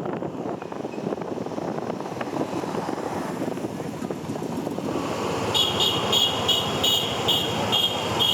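Steady outdoor rumble of vehicle noise. About five and a half seconds in, a rapid series of short high beeps begins, about three a second.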